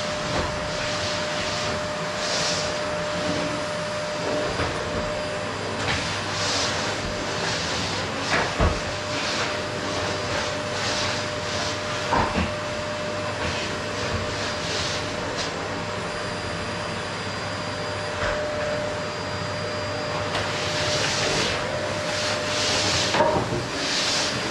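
Qilive vacuum cleaner running steadily, with a constant whine under its hiss. The hiss swells and fades every couple of seconds as it works over a wooden floor, with a few light knocks.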